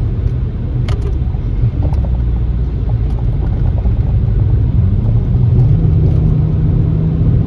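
Car driving slowly on a rough country road, heard from inside the car: a steady low rumble of engine and tyres. The engine note rises a little about five seconds in, and there are a few light knocks.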